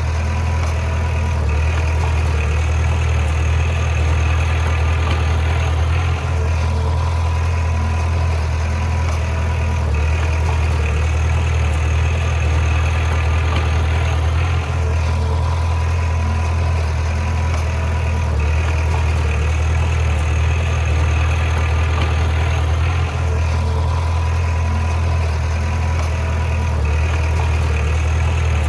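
Heavy diesel engine of a bulldozer running steadily at an even speed, with a strong low hum.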